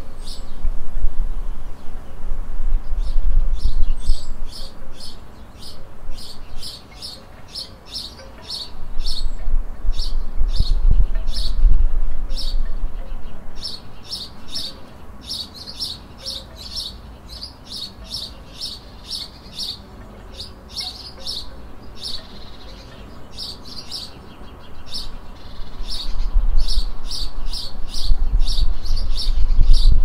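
A small songbird repeating short, high chirps, about three a second, with a few brief pauses. A low rumble swells and fades beneath it several times and is loudest near the start, in the middle and at the end.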